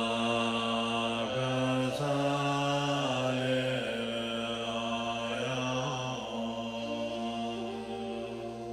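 A male voice chanting a Tibetan Bön mantra in long, held tones, the pitch stepping to a new note every second or two, over a steady held tone.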